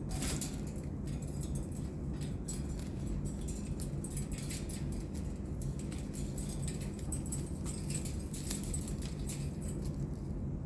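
A parrot moving about a wire cage: scattered light clicks and scratches over a steady low hum.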